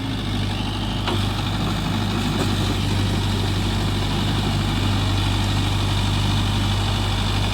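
Mahindra Yuvo Tech+ 585 DI tractor's diesel engine running steadily, a deep even drone.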